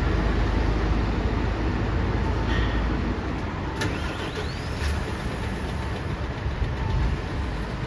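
City bus diesel engine running with a heavy low rumble that eases off about three seconds in. Two sharp clicks and a brief faint whine come near the middle.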